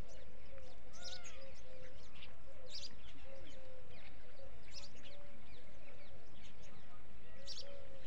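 Small birds chirping, short high calls every second or so, over a faint, steady lower tone.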